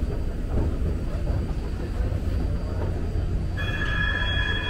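BART train car in motion: a steady low rumble from the running gear and track. About three and a half seconds in, a high steady tone of several pitches starts suddenly and holds for about a second.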